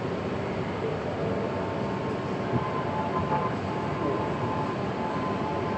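Tohoku Shinkansen Hayabusa train running: a steady rumble and hiss with a faint, even whine.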